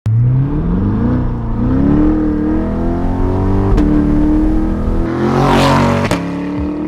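Chevrolet Corvette C8 Z51's mid-mounted 6.2-litre V8, breathing through a valved Fi Exhaust with straight pipes in place of the catalytic converters. It revs up, rising in pitch over the first second and a half, then runs on at high revs. A burst of hiss comes about five seconds in, and there are two sharp clicks.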